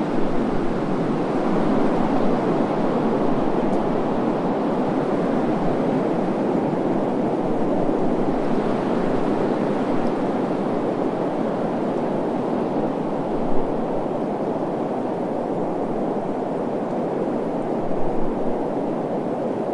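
Desert wind blowing in a steady rush, with a couple of brief low gusts hitting the microphone about two-thirds of the way in and near the end.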